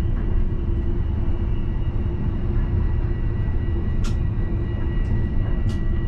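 Alstom Citadis tram heard from inside the driver's cab: a steady low rumble with a constant hum, plus two short sharp clicks about four and nearly six seconds in.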